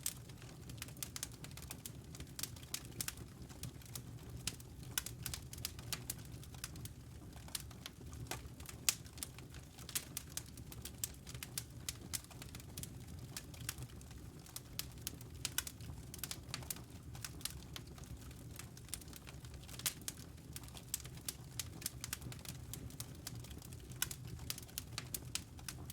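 Wood fire in a fireplace crackling: irregular sharp pops and snaps, many each second, over a steady low rumble.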